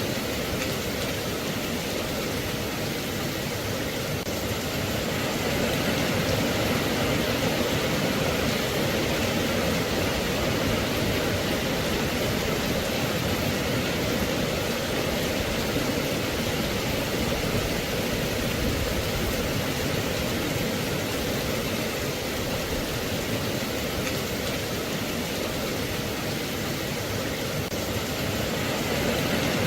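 Steady rain, an even hiss that grows a little louder about six seconds in.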